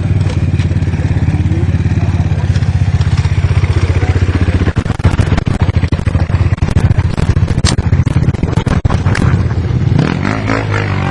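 Enduro dirt bike engine running close by. From about halfway through, a spell of clattering knocks and scrapes cuts across it.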